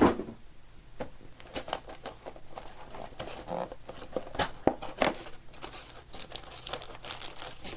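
Foil trading-card packs crinkling and rustling as they are handled and pulled from a cardboard box, with many small clicks and taps. A sharp thump right at the start.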